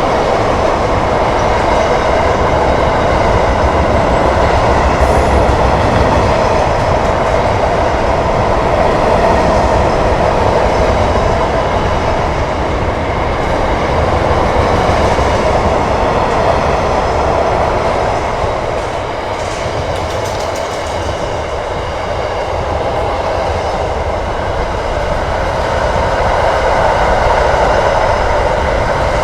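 Intermodal freight train rolling past: a continuous rumble with wheel-on-rail noise from the wagons, easing for a few seconds past the middle and then building again.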